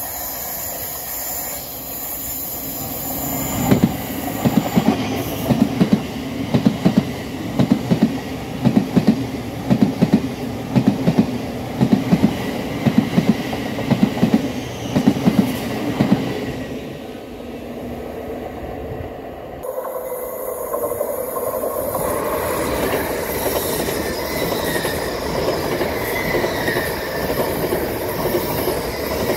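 Passenger train passing close by at speed. From about four seconds in to about sixteen seconds, its wheels clack in a steady rhythm over the rail joints, then the carriages run on with a steady rumble and hiss.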